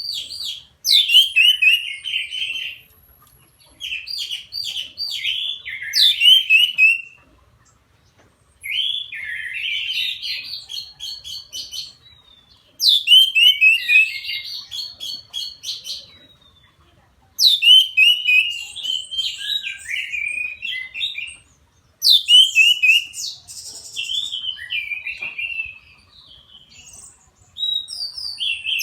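Orange-headed thrush (anis merah) singing: about six full phrases of rapid, varied notes, each a second or more long with short pauses between.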